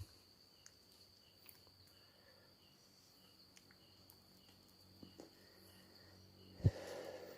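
Crickets chirring steadily in a high, thin tone, with a fainter chirp repeating about twice a second. A single sharp thump near the end is the loudest sound.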